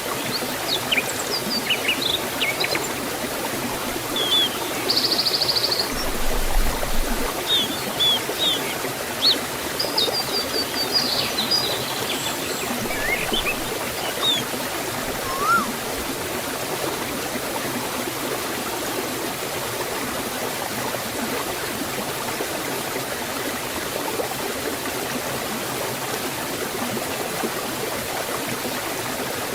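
Steady rush of water flowing in a forest waterfall and stream. Birds chirp in short calls over it during the first half.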